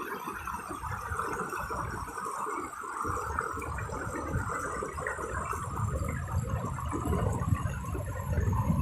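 Stream water rushing steadily, with an irregular low rumble that grows stronger from about three seconds in.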